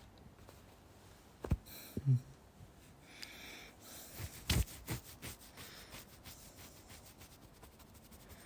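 Soft rustling and rubbing close to the microphone, like cloth shifting during a cuddle, with a few louder knocks about one and a half, two, and four and a half seconds in.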